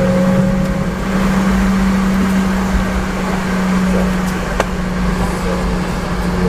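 Steady cabin drone inside a Boeing 717-200 airliner, with a constant low hum running through it. A single short click comes about four and a half seconds in.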